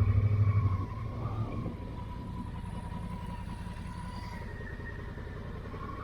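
Honda Africa Twin motorcycle engine running on a dirt road, loud for about the first second, then easing to a quieter, steady drone.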